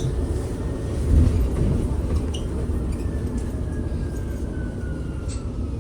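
Inside a BYD B12 battery-electric bus on the move: a steady low road rumble, with a brief louder bump about a second in. From about halfway, the electric traction motor's thin whine falls slowly in pitch as the bus slows.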